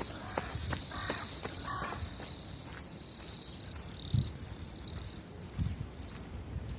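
Insects trilling in long high buzzes that stop and start every second or two. A runner's footsteps patter underneath, about three a second, during the first two seconds.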